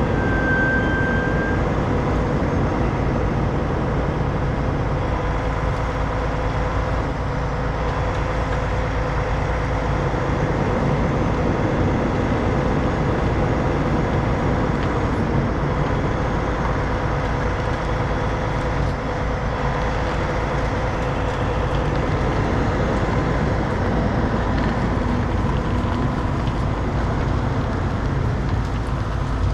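Heavy diesel truck engine running steadily under load with a steady whine, typical of a rotator wrecker working its winch to drag a stuck semi.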